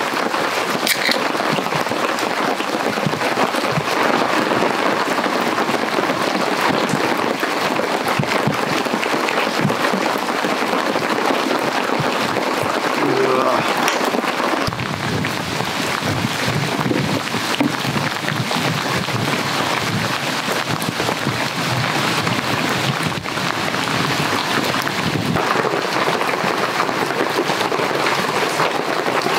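Heavy rain falling steadily on a tarp overhead, a dense even patter.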